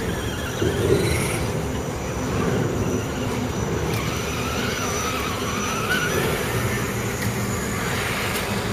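Electric motor of an RC off-road truck whining as it drives, its pitch rising and falling with the throttle, over a steady low rumble.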